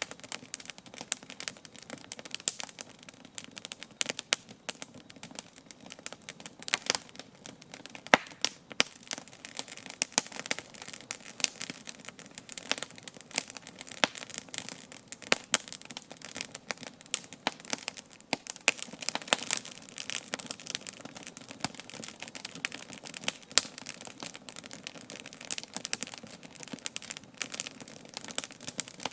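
Wood fire crackling and popping steadily, with many small irregular snaps and an occasional louder crack.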